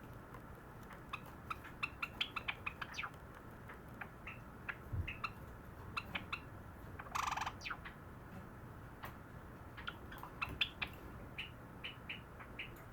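Java sparrow (sakura buncho) singing: two runs of quick, sharp clicking and piping notes, with one longer, rougher note about seven seconds in.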